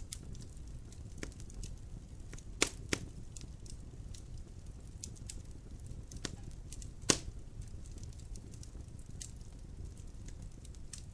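Wood fire burning in a fireplace: a steady low rumble with scattered crackles and a few sharp pops, the loudest at about two and a half seconds in, just after, and about seven seconds in.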